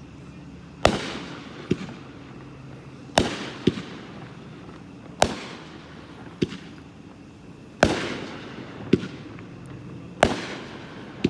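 A 300-gram consumer gender-reveal firework cake firing shot by shot: about ten sharp bangs, one every second or two, the louder ones trailing off in a rolling echo.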